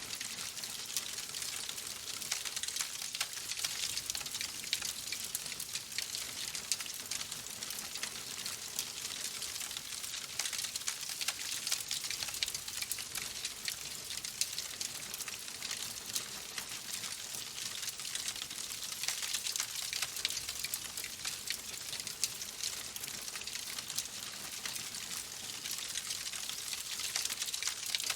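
Wood fire crackling in a fireplace: a steady hiss dotted with many small irregular pops and snaps.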